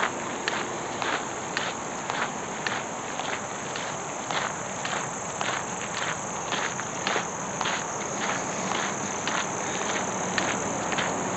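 Footsteps, about two a second, over a steady high-pitched chorus of insects.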